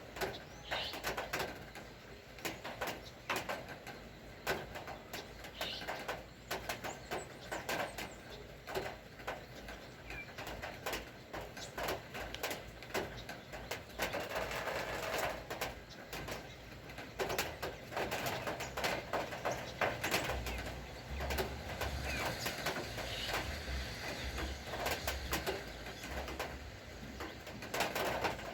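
Rain dripping, with many irregular drops tapping over a steady patter, and a dove cooing.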